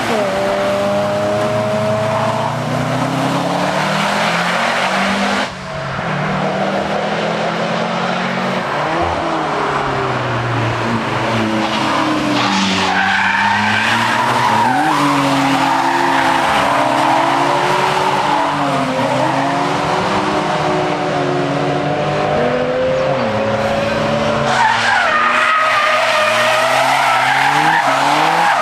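Race car engine running hard up a hill-climb course, the revs rising through the gears and dropping back again and again for the bends, with tyres squealing at times. The sound breaks off briefly about five and a half seconds in.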